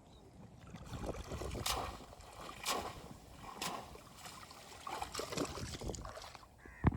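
Water splashing and sloshing in a few soft strokes about a second apart, with a sharp click near the end.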